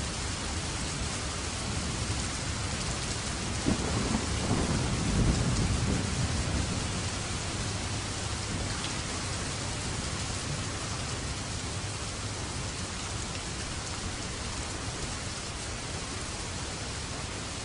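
Steady rain hissing throughout, with a roll of thunder that breaks sharply about four seconds in, rumbles low for a few seconds and dies back into the rain.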